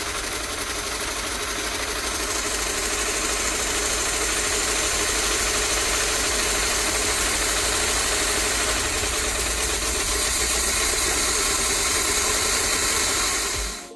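1973 GMC motorhome's Oldsmobile 455 V8 running at a steady idle after a cold start.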